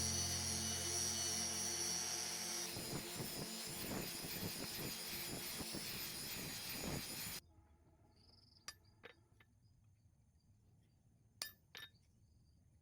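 Dense clinking and rattling that cuts off abruptly about seven seconds in, followed by a few light, sharp clinks in two pairs.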